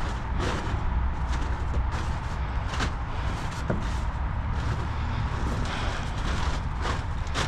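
An engine idling steadily in a low rumble, with a few light clicks and knocks over it.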